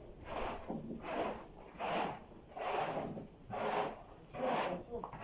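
Rhythmic scraping or rubbing strokes, about one a second, six in a row.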